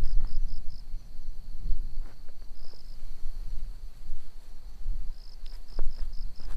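An insect, cricket-like, chirping in short high trills of about five pulses a second, which break off and start again twice. Underneath runs a steady low rumble, with a few sharp clicks.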